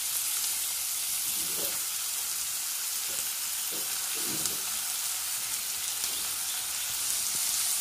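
Sliced onions and green chillies sizzling steadily in hot oil in an iron kadai.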